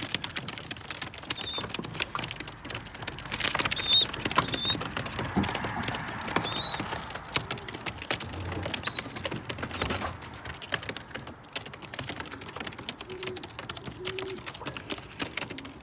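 A bird's short, high alarm calls, repeated at irregular intervals of a second or two, a distress call that the owner takes for the sign of a predator lurking. Underneath are many light clicks and taps from racing pigeons moving on the loft's landing board.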